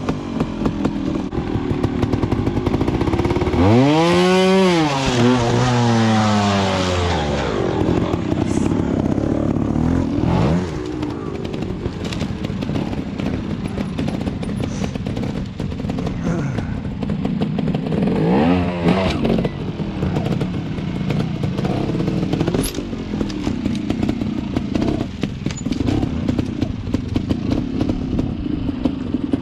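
Beta trials motorcycle engine running at low revs, with a sharp throttle blip that rises and falls in pitch about four seconds in and smaller ones around ten and eighteen seconds, amid short clattering knocks.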